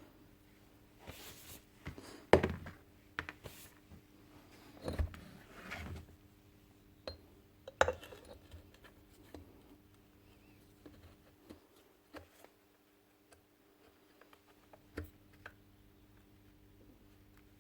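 Scattered clicks and knocks of metal parts and hand tools being handled on a workbench while working on a Bosch demolition hammer, with the sharpest knocks about two and eight seconds in, over a faint steady hum.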